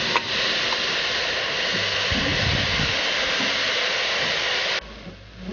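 Shredded cabbage sizzling in hot oil in a wok, a steady hiss that cuts off suddenly near the end.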